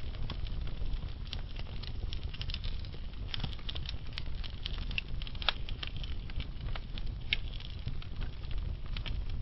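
Wood fire burning slowly in a fireplace, logs crackling and popping irregularly over a low, steady rumble of the flames.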